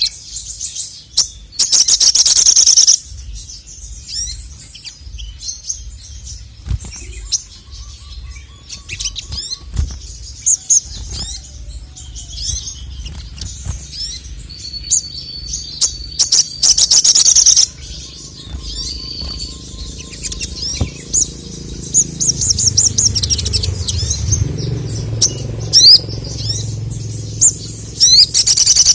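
Male sogon (ruby-cheeked sunbird) singing a fast, high twittering of chirps and quick glides, broken about two seconds in, around seventeen seconds in and again near the end by loud, rapid rattling trills. A low hum runs underneath.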